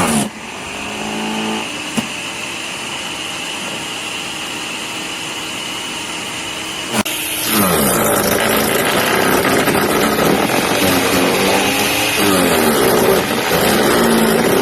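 15-amp electric wood chipper (shredder) running with a steady motor whine. About seven seconds in, after a sharp click, it gets louder and rougher, its pitch dipping again and again under load as branches are shredded.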